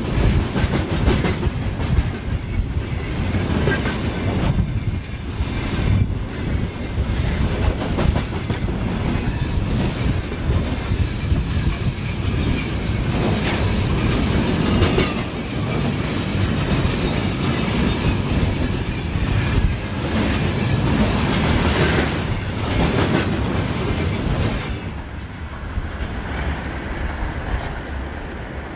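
Freight train wagons rolling past close by, wheels clattering over the rail joints. About 25 seconds in the sound drops and thins as the end of the train goes by.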